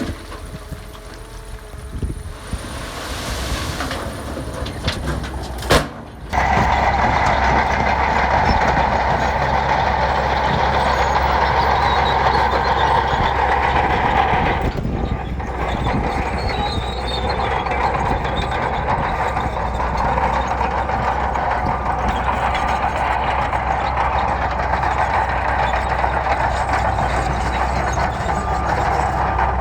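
Heavy diesel earthmoving machinery running steadily. About six seconds in, the sound jumps abruptly to a louder, steady engine noise with a strong low hum.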